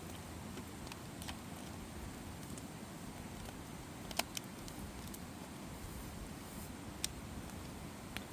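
Campfire crackling: a steady low rush of burning wood with a few sharp pops, the loudest about four seconds in.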